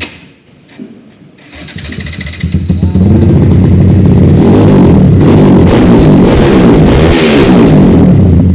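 Yamaha MX King 150's single-cylinder four-stroke engine through an aftermarket racing exhaust, starting about a second and a half in and then revved hard and loud, its pitch rising and falling.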